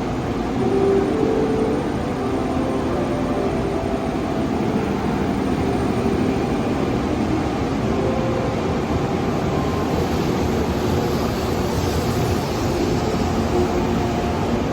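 JR Kyushu 415 series electric multiple unit pulling out: steady running noise of wheels on rail, with a wavering hum from the motors.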